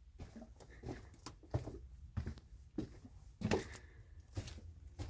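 Irregular soft knocks and scuffs, one or two a second, over a low rumble, the loudest about three and a half seconds in.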